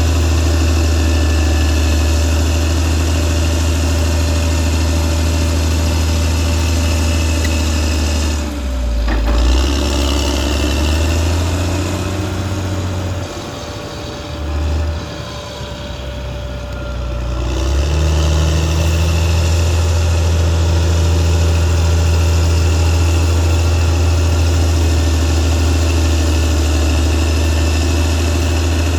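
Caterpillar D6R XL bulldozer's diesel engine running steadily. From about 8 to 18 seconds in, the engine note drops and wavers, then settles back to its steady pitch.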